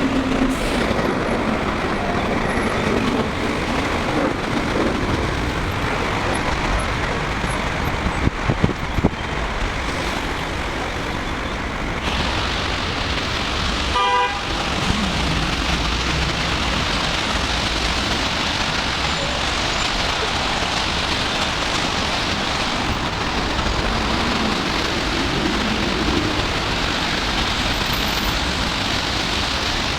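Steady noise of busy city road traffic, cars and buses running past, with a few sharp knocks about a third of the way in and a short car-horn toot about halfway through.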